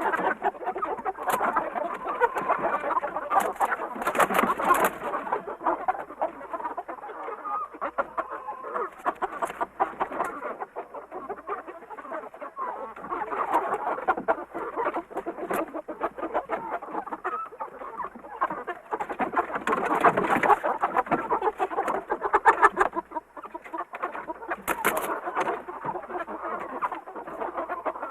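A flock of chickens clucking together: a dense, continuous chatter of overlapping calls that swells louder around four seconds in and again about twenty seconds in.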